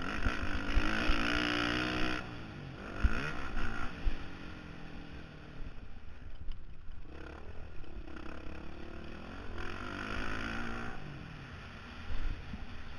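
Honda CRF450R single-cylinder four-stroke motocross engine, heard from a helmet camera, revving up hard for the first two seconds, dropping off, then climbing again from about seven seconds in before easing back. Low buffeting and knocks on the microphone run under the engine.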